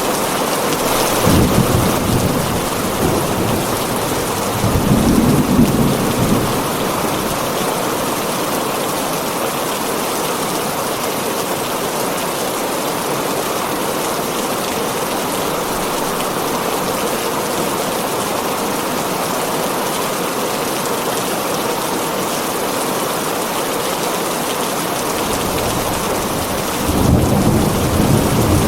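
Heavy rain drumming steadily on a tin roof, with low rolls of thunder about a second in, again around five seconds, and near the end.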